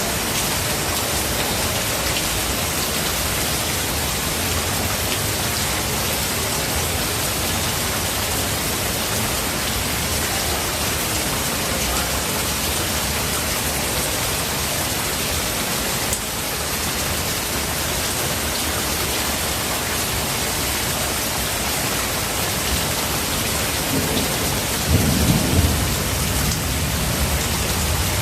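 Steady, heavy rain, with a short low rumble of thunder near the end.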